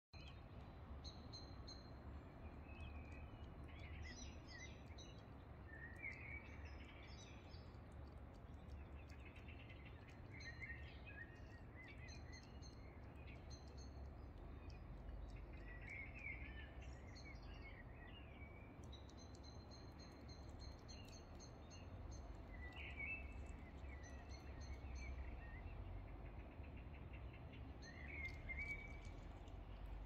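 Birds singing and calling, faint chirps and trills coming again and again, some as quick repeated high notes, over a low steady background rumble.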